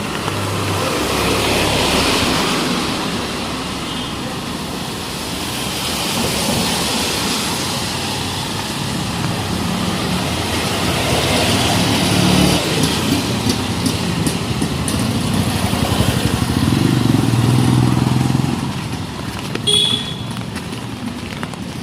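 Street traffic going by: motorcycles and cars pass one after another, the noise swelling and fading as each goes past. There is a short high beep near the end.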